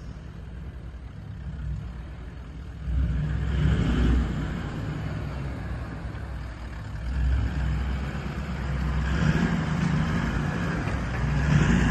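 Four-wheel-drive vehicle's engine running with a low rumble, revving up in surges, the first and biggest about three seconds in.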